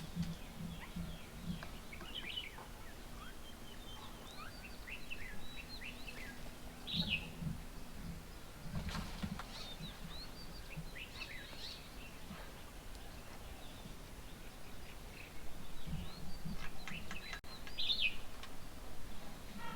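Wild birds at a feeding table giving short, scattered chirps and squeaky calls, with a low hum coming and going underneath.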